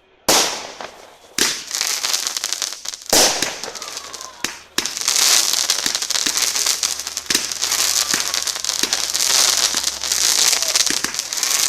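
Fireworks going off: several loud bangs in the first few seconds, each fading away. From about five seconds in, a dense, continuous crackling sets in, with faint whistles gliding through it.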